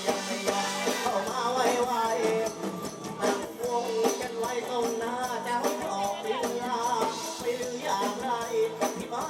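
Live band music with a steady percussion beat, and a wavering melody line above it.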